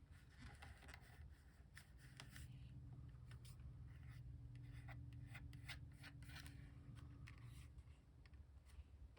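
Faint rustling and small taps of paper and cardstock being handled, over a low hum that comes in about two seconds in and fades near the end.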